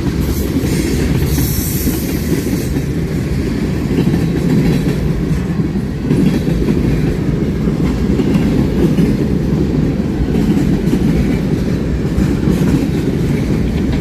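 A train rolling past, a loud steady rumble of wheels on the rails.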